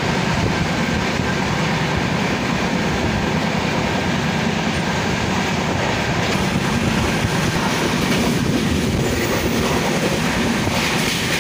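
Passenger train coach running at speed, heard from inside at an open window or door: a steady rumble and rattle of wheels on the rails.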